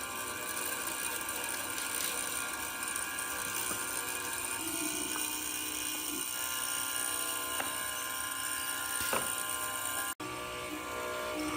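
A power tool's electric motor running steadily with a high whine. A brief cut about ten seconds in, after which it carries on.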